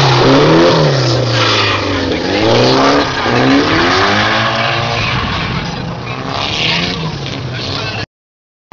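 Nissan SR20DET turbocharged four-cylinder in a Mk2 Ford Escort drift car, revving up and down repeatedly as the car slides through the corners. It grows fainter over the last few seconds as the car pulls away, then the sound cuts off abruptly near the end.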